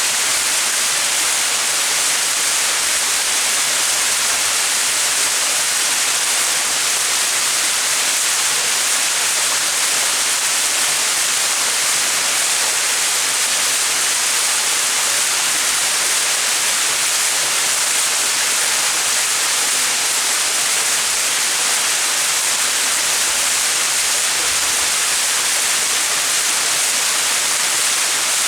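Small mountain waterfall splashing, a steady even rush of falling water.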